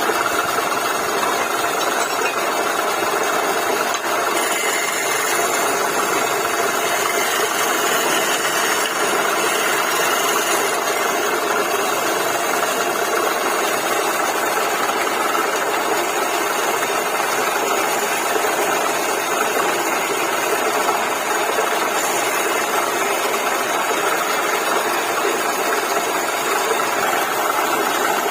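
Woodworking lathe running steadily, a continuous even machine noise with no breaks.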